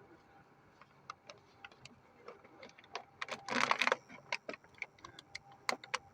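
Irregular sharp metallic clicks and taps of hand tools and parts being handled on an engine, with a brief rushing noise about three and a half seconds in.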